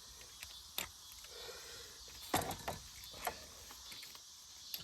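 A few faint, sharp clicks and knocks over a low background, the loudest about a second in and in a cluster a little past the middle.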